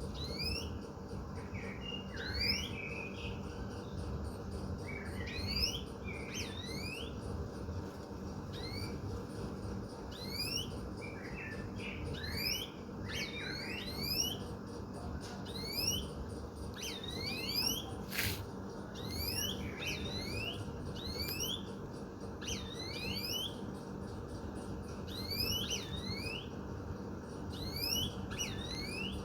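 Birds calling over a steady low city hum: many short, rising chirps, often in pairs and at uneven spacing, mixed with some lower twittering. A single sharp click sounds about 18 seconds in.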